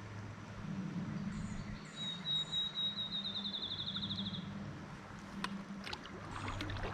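A songbird singing: a few high thin notes, then a rapid trill of about two seconds that falls slightly in pitch. A steady low hum runs underneath.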